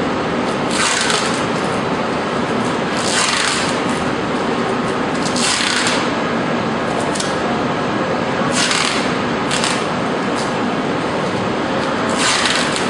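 Steady machinery noise with a short hiss recurring every two to three seconds, about six times.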